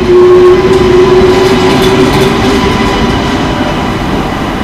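TGV Lyria high-speed electric train pulling slowly out of the platform: a loud rolling rumble with a humming tone that fades over the first couple of seconds, and a few wheel clicks near the middle.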